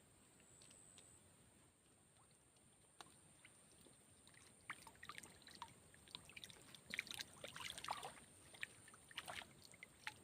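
Faint small water splashes and dribbles, coming irregularly from a few seconds in.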